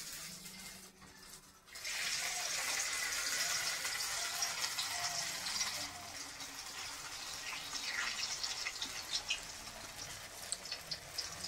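Slices of colocasia-leaf rolls (patrode) sizzling in shallow hot oil in a kadai as they are laid in. The sizzle starts up about two seconds in and keeps going, with small crackles and pops growing more frequent near the end.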